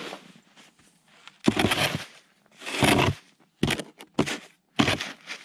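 Shovel digging into deep snow: a series of crunching, scraping scoops, two longer ones about a second and a half in and three short ones following.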